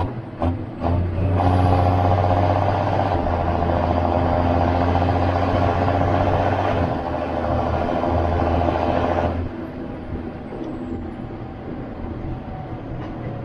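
John Deere 7530 Premium tractor's six-cylinder turbo diesel engine working hard under load, easing off about nine seconds in and running on more quietly. A few short knocks in the first second.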